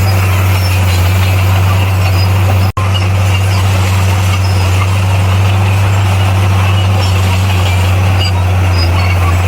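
Bulldozer's diesel engine running steadily at a constant speed, a deep even hum with mechanical clatter over it. The sound cuts out for an instant just under three seconds in.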